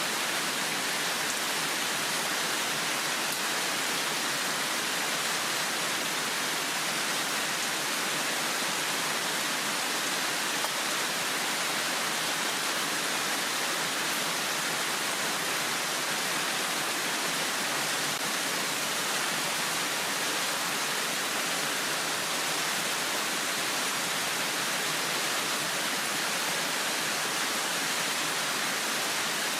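Heavy downpour of rain, a steady even hiss.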